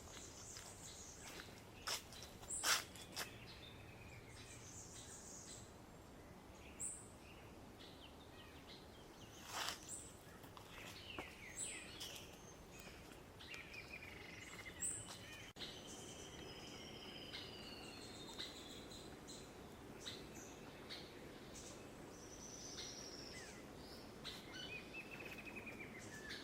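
Several wild birds calling and singing, with short whistles, chirps and trills overlapping in a forest dawn chorus. A few sharp clicks come in the first ten seconds, the loudest about three seconds in.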